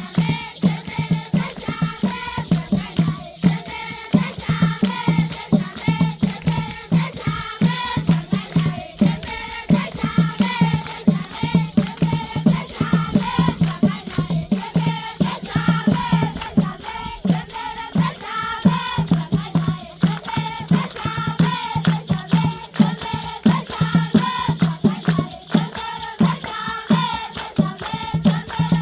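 A group of children singing a traditional Zimbabwean rain-dance song in chorus, with rattles shaken in a steady beat.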